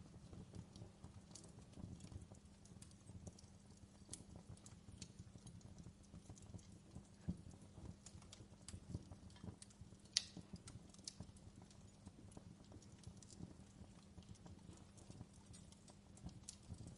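Fireplace fire crackling softly: irregular small pops and snaps over a faint low rumble, with one sharper pop about ten seconds in.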